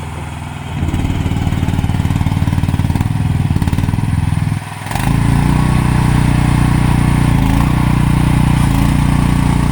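Mini excavator's engine running, getting louder about a second in, dipping briefly, then picking up again and holding steady from about five seconds.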